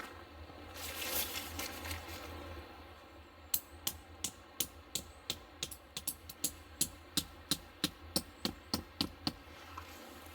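A brief rustle, then a steady run of about twenty sharp knocks at about three a second, starting some three and a half seconds in and stopping shortly before the end.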